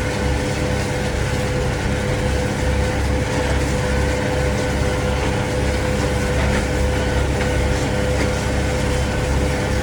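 Kubota tractor's engine running steadily while mowing hay with a Kuhn disc mower, heard from inside the cab: a low pulsing drone with a constant higher hum over it.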